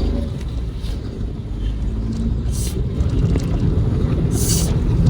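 Road and engine rumble of a moving car heard inside the cabin, growing louder about three seconds in. Three short hissy sounds come through above it.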